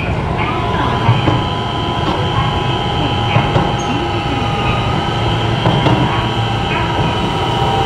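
Keio 7000-series electric train heard from inside while running: a steady low rumble of wheels on rail with a constant electrical hum and a few faint clicks and wheel squeals.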